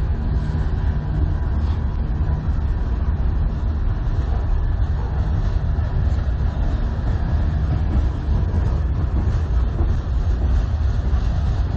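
A long manifest freight train's cars rolling past at speed: a steady low rumble of steel wheels on rail with faint scattered clicks and rattles.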